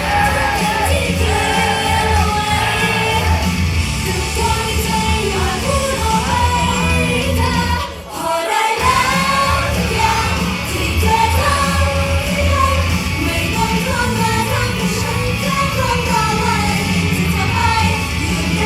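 Loud idol pop song played live through a hall sound system, with sung vocals over a heavy, steady bass beat. The music briefly drops out for about half a second around the middle.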